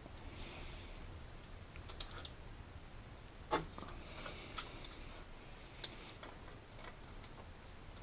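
Scattered small clicks and taps from hand work fitting the alternator's charging cable and its clamp onto the stud, with a sharper knock about three and a half seconds in and another click near six seconds.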